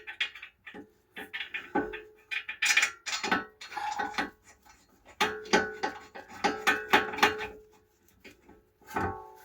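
Metal tools and parts clinking and clanking: a run of sharp metallic knocks and taps, several leaving a short ringing tone, with brief pauses between them.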